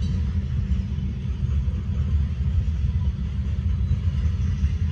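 Covered hopper cars of a freight train rolling past, a steady low rumble of wheels on the rails.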